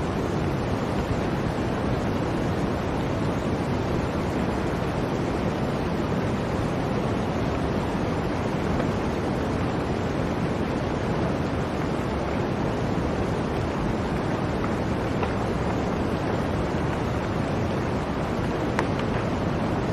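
Blizzard wind blowing steadily, a dense, unbroken rush with a strong low rumble.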